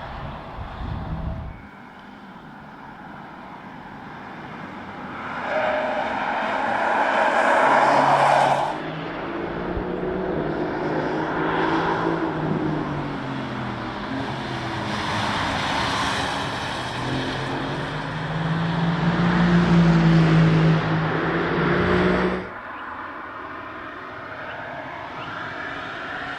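Audi A5 Avant (B10) prototype driving past at speed, its engine pitch falling and rising as it goes. It is loudest twice, about a fifth of the way in and again near the end, then cuts off suddenly.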